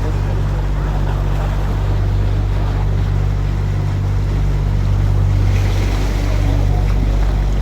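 Canal tour boat's engine running at a steady low hum while cruising, with a steady hiss over it.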